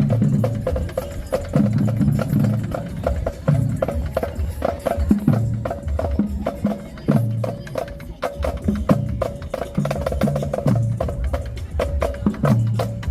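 Marching band drumline playing a cadence: rapid, crisp snare and stick clicks over a repeating pattern of pitched bass drum hits.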